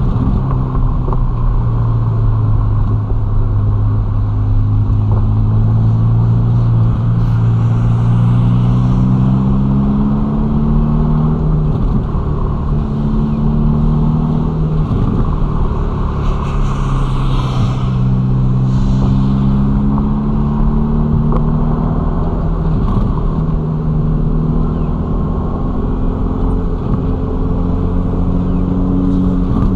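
Ferrari Roma's twin-turbo V8 engine running at low, steady revs while driving, its pitch drifting gently up and down with a few small steps in the middle.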